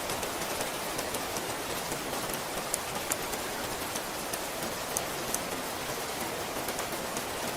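Steady rain falling, with many individual drops pattering close by as short sharp ticks over the even hiss.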